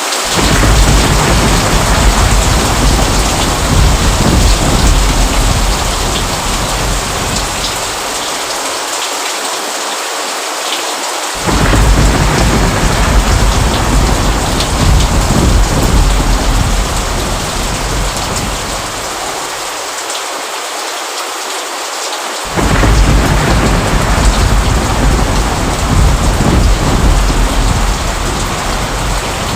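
Steady rain falling, with low rolls of thunder that start suddenly three times, about eleven seconds apart, each dying away over several seconds.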